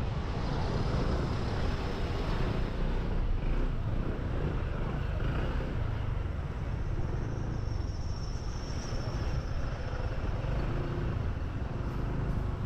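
Motorbike riding along a road: wind rushing over the helmet-mounted action camera's microphone with the bike's engine running underneath, with a faint high whine for a second or two in the middle.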